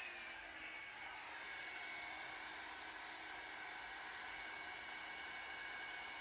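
Revlon One-Step Hair Dryer and Volumizer running steadily on its low heat setting: a steady airy rush with a high motor whine that eases down slightly in pitch at the start.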